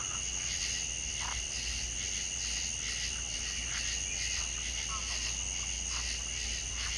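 Steady chorus of crickets or similar insects, a shrill even trill holding two high pitches, with a few faint short animal calls scattered through it.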